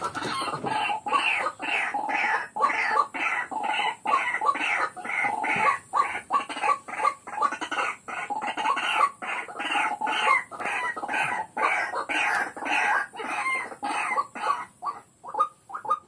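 A bird calling in a long, rapid series of harsh, evenly spaced calls, about three a second, which grow shorter and fainter near the end.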